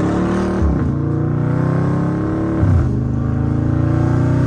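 Dodge Charger Scat Pack's 392 HEMI V8 under hard acceleration, heard from inside the cabin: the engine note climbs, falls sharply at a gear change about two-thirds of a second in and again a little under three seconds in, and climbs again each time.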